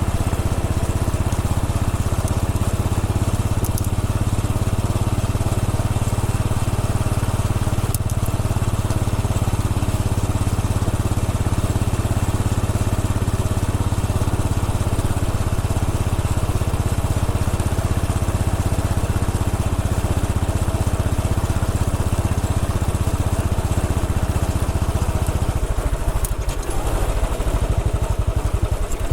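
Royal Enfield Bullet 500 EFI's air-cooled single-cylinder engine running steadily under way, heard from on the motorcycle. Near the end its note drops and the separate beats of the single cylinder become distinct.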